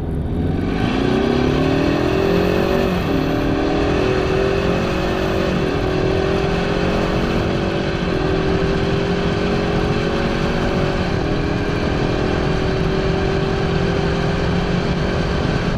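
Ford Mustang EcoBoost's turbocharged 2.3-litre inline-four accelerating hard at full throttle. Its pitch climbs and drops at four upshifts of the 10-speed automatic, about 3, 5.5, 8 and 11 seconds in.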